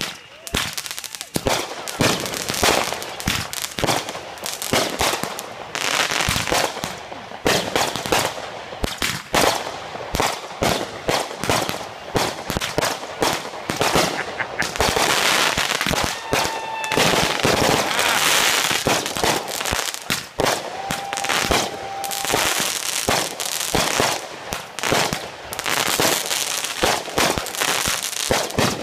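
Aerial fireworks going off in rapid volleys: quick successions of sharp bangs and crackling, with a whistling tone twice in the middle.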